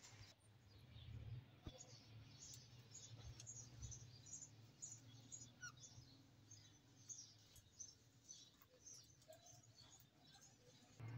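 Small birds chirping faintly: many short, high chirps scattered throughout, with a few lower whistled notes, over a faint low hum.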